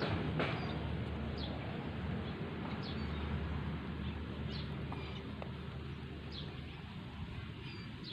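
A bird calling repeatedly in short falling chirps every second or two, over steady background noise.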